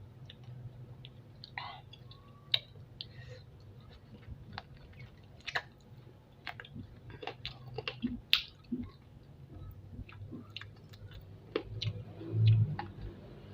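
Close-miked chewing and sucking on spicy chicken feet: irregular wet smacks and sharp clicks of lips, teeth and small bones, with a brief louder low hum near the end.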